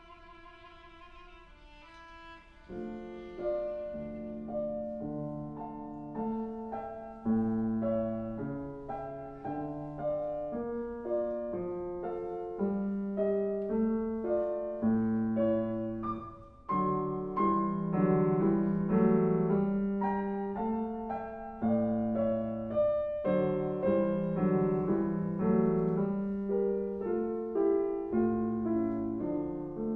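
A viola holds a quiet note with vibrato that fades out, then a piano comes in with a steady run of struck chords that grows louder about halfway through.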